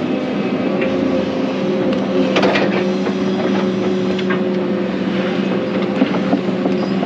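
Excavator's diesel engine running steadily during ditch digging, with a few short knocks and scrapes.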